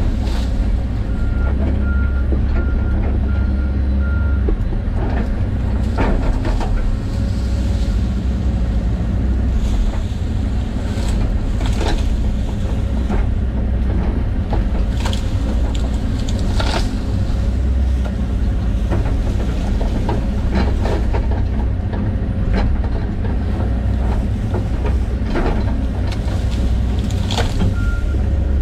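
John Deere 130G excavator's diesel engine running steadily while working. Its travel alarm beeps in short, evenly spaced pips, about two a second, for a few seconds near the start and again near the end. Sharp cracks and knocks come at scattered moments throughout.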